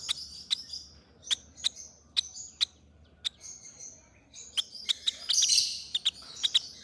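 Baby parrots begging to be fed: irregular sharp, short chirps, with a louder burst of raspy hissing begging calls about five seconds in.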